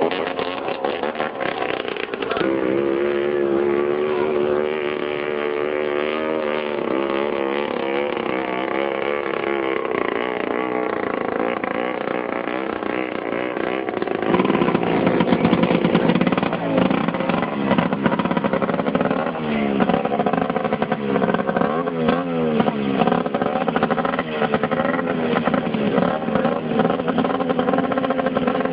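Racing boat engines running and revving, their pitch rising and falling. The engines grow louder about halfway through.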